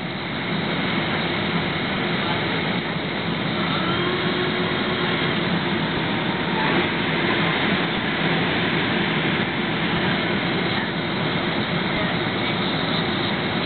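Steady engine and airflow noise inside the cabin of a Boeing 767 on final approach: an even, unbroken rush with a faint hum in it.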